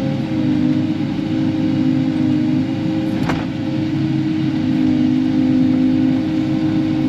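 Kubota KX080-4 excavator's four-cylinder diesel engine running steadily under work as the machine is operated, with small shifts in pitch and a single sharp click about three seconds in.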